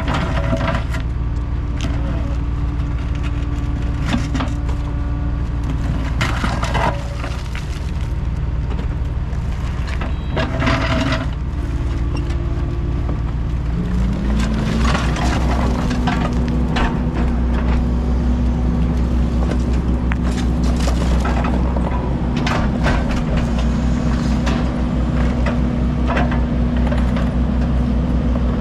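Heavy diesel machinery engine running steadily amid sharp knocks and cracking of debris being handled. About halfway through, the engine speeds up and holds at the higher speed.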